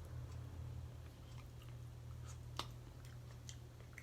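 A person chewing food close to the microphone, with scattered small wet mouth clicks and one sharper click about two and a half seconds in. A steady low hum runs underneath.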